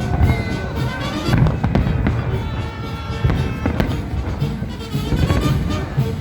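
Fireworks salute: a rapid, dense series of bangs and booming bursts, with music playing underneath.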